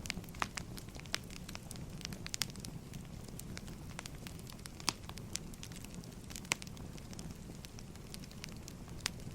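Firewood burning and crackling: a steady low rumble of the fire with irregular sharp pops and snaps, a few of them louder than the rest.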